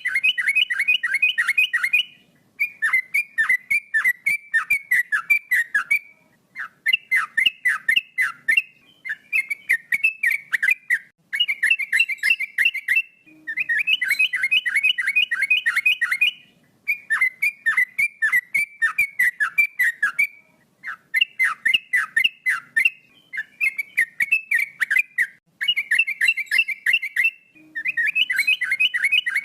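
Male yellow-vented bulbul (trucukan) singing: repeated phrases of quick, falling whistled notes, each phrase about two to three seconds long with short pauses between.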